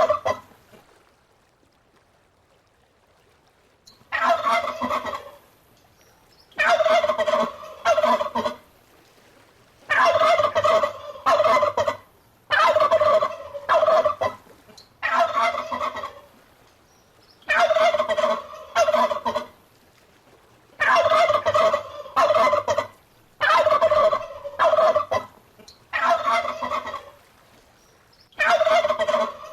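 Turkey gobbling over and over, about ten gobbles at an even pace of roughly one every two and a half seconds, after a short pause at the start. Each gobble is a loud, rattling call of about a second and a half, with a brief break near its end.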